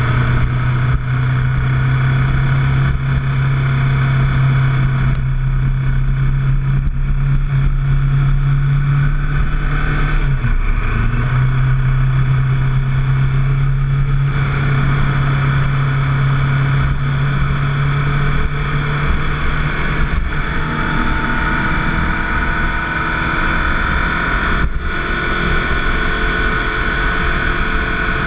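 Motorcycle engine running on the move at a steady pace, with a short dip about ten seconds in. After about twenty seconds the engine note changes and higher tones climb slowly in pitch.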